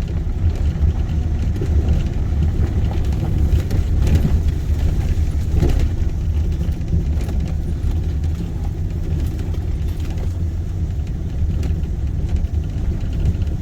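Pickup truck driving over a rough forest road, heard from inside the cab: a steady low engine and road rumble with a few faint knocks.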